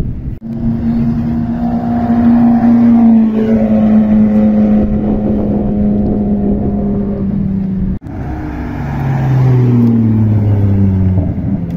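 Ferrari sports car engines running hard on a drive-by: one holds high, nearly steady revs for several seconds. After an abrupt cut about eight seconds in, a second engine note falls in pitch as the car eases off.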